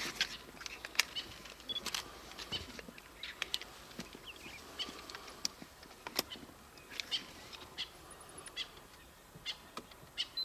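Birds calling in short, scattered chirps, with a few sharp clicks in between.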